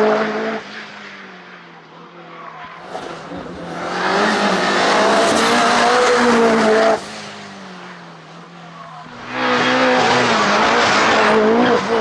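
Mitsubishi Evo 8 hillclimb car's 2-litre turbocharged four-cylinder engine running hard at high revs. It is loud at the very start and again from about four seconds, drops off suddenly at about seven seconds, and comes back loud from about nine and a half seconds.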